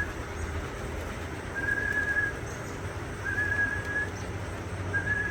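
A steady, flat whistled note, held for under a second and repeated three times at even gaps, calling racing pigeons back into the loft.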